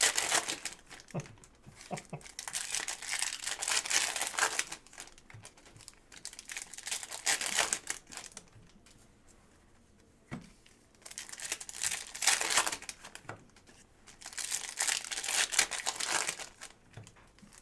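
Foil card-pack wrappers being torn open and crinkled by hand, in several spells of a second or more with short pauses between.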